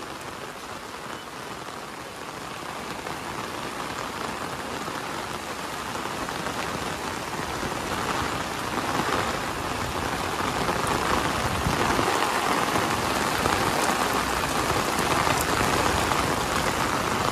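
Heavy rain pouring down, a dense steady hiss that grows louder over the first half and then holds.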